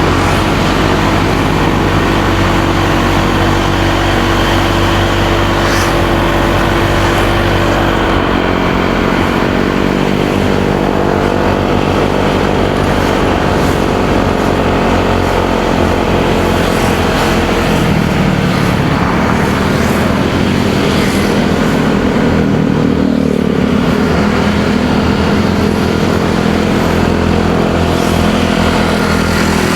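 Motorcycle engine running under way, over road and wind noise. Its note drops about eight seconds in and rises again around eighteen to twenty seconds.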